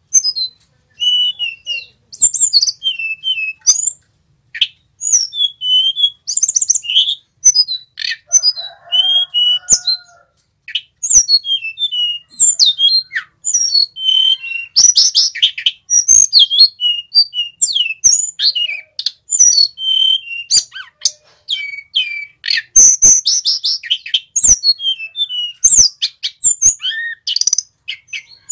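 Male sulingan gunung singing: a rapid, varied run of high-pitched chirps, short whistled notes and trills with only brief pauses.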